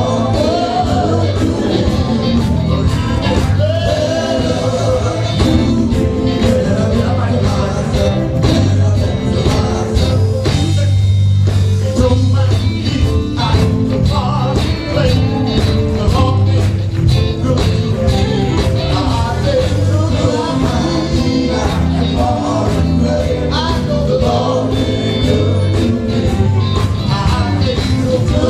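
Live gospel music: a band playing a steady bass line and drum beat, with singing over it.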